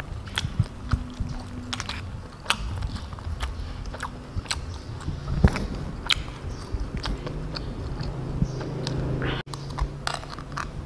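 Close-miked chewing and mouth sounds of someone eating soft rice, egg and instant noodles, with many sharp wet clicks from lips and tongue scattered throughout.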